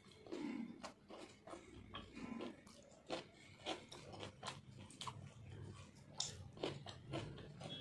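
Close-up chewing of luchi and mutton curry: irregular wet mouth clicks and lip smacks, a few a second.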